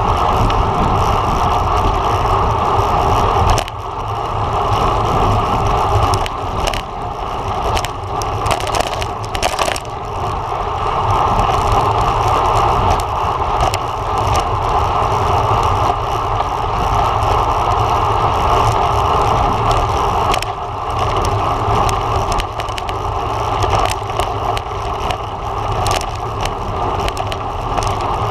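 Wind rushing over a camera microphone on a road bike at racing speed, a steady rumble and hiss, with a few brief clicks and knocks between about six and ten seconds in.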